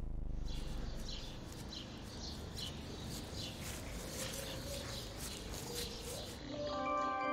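Outdoor street ambience: birds chirping again and again over a steady low background rumble. Near the end, melodic music with mallet percussion comes in.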